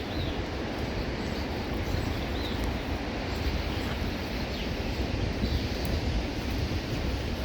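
Outdoor street ambience: a steady low rumbling noise with a few faint, brief bird chirps scattered through it.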